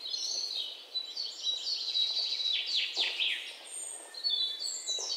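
Small birds chirping and singing: a dense run of quick, high, overlapping calls, with several downward-sweeping notes near the middle.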